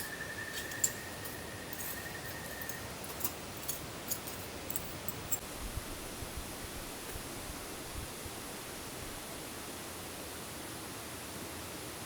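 Steady hiss of rain and a nearby stream, with scattered sharp ticks in the first half that then stop.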